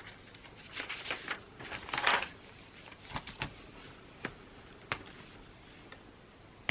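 Writing on paper with a pen or pencil: a quick run of scratchy strokes, loudest about two seconds in, then a few separate sharp light taps.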